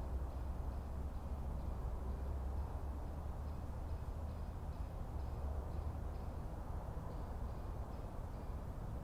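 Forest ambience: a steady low rumble under a soft wash of background noise, with faint, short high chirps repeating every half second or so.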